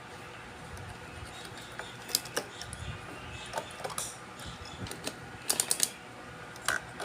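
Scattered small clicks and taps of hand tools and electronic parts being handled on a circuit board, with a quick run of about four sharp clicks about five and a half seconds in.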